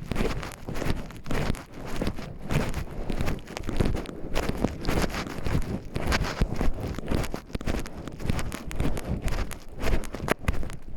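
Footsteps of a person walking on a forest trail, a close, uneven run of footfalls with rustling.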